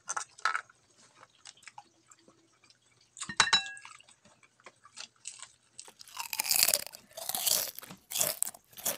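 Close-up chewing and crunching of shrimp in the mouth, a run of short crisp crunches. A sharp crack with a brief ring a little past three seconds, and denser, louder crunching in the last three seconds.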